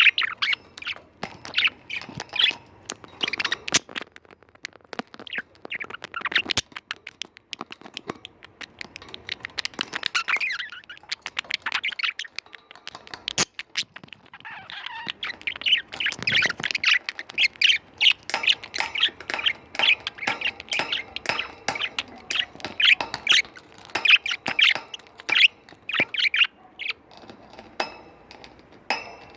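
Budgies chattering and warbling in a busy run of quick chirps, broken by a few sharp clicks.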